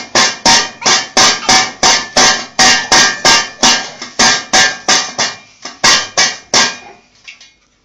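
Ringneck parakeet banging a dish, a quick series of about twenty ringing clinks at roughly three a second, which stops about seven seconds in.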